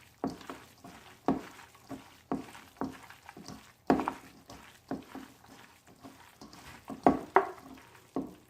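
Kitchen utensil stirring and tossing a beef salad in a mixing bowl, knocking against the bowl in short sharp strikes about once a second, with a quick double knock near the end.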